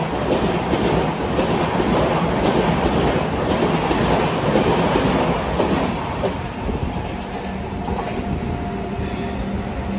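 Express train's LHB passenger coaches running past at speed: a steady rumble and rattle of wheels on the rails. The noise drops off somewhat about six seconds in.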